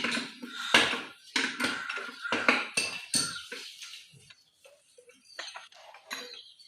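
Metal engine parts clinking and knocking against each other as push rods and a rocker assembly are handled and fitted onto a diesel engine's cylinder head. The clinks come thick and fast at first and thin out after about four seconds.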